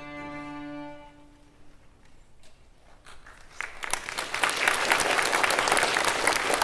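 A student ensemble's held closing chord fades out about a second in; after a short hush, audience applause starts and builds, staying loud to the end.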